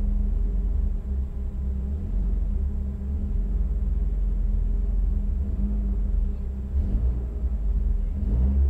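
Opel Tigra's engine idling, heard from inside the cabin as a steady low rumble that swells briefly near the end.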